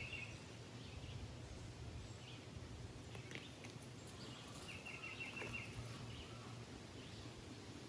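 A songbird singing a short, rapid trill of repeated chirps, once right at the start and again about five seconds in, over faint outdoor background noise with a steady low hum.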